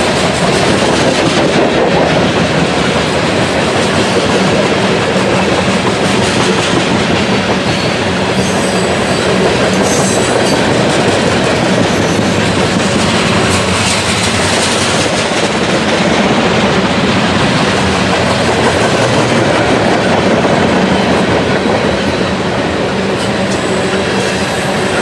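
Railroad cars rolling past on the rails: a loud, steady rumble and clatter of steel wheels.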